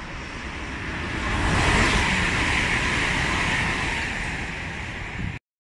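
Passenger train passing through the station at speed: a rush of wheels on rail and air that builds to a peak about two seconds in, then slowly fades. It cuts off abruptly near the end.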